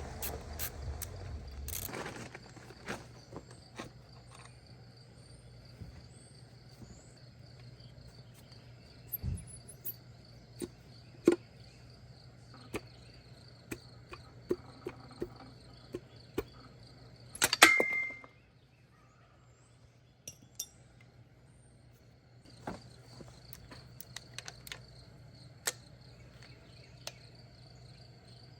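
Scattered metallic clicks and clinks of hand tools and engine parts being handled, with a louder clatter and brief ring about two-thirds of the way through. A faint steady high-pitched whine and a low hum run underneath.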